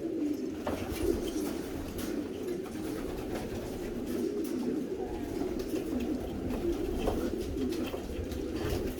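Many racing pigeons cooing at once, overlapping steadily, with a few faint clicks.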